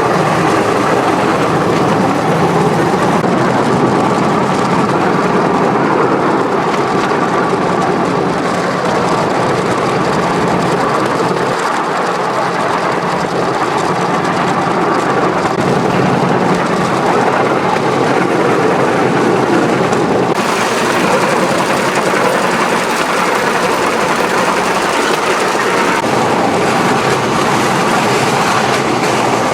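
Bamboo train (norry) running along the rails: a steady engine hum under the loud, continuous rattle of the light platform and its wheels on the track.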